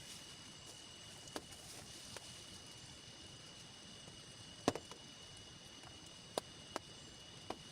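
Scattered sharp ticks and taps, about five of them, the loudest near the middle, over a faint steady hiss with a thin high steady tone.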